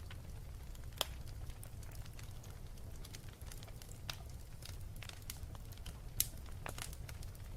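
Wood fire burning with a low steady rumble and scattered sharp crackles and pops, the loudest pops about a second in and just after six seconds.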